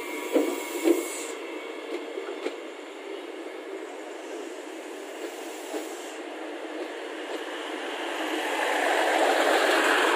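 Passenger multiple-unit train cars rolling past close by with a steady rolling rumble. Two sharp clunks from the wheels come about half a second apart near the start, a few lighter clicks follow, and the noise swells louder near the end as the last cars pass.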